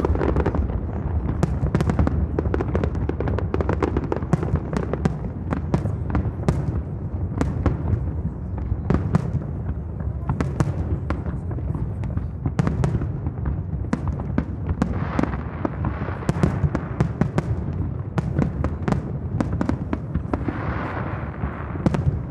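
Fireworks display heard across a harbour: a continuous rolling rumble of aerial shell bursts with dense sharp cracks and crackling throughout.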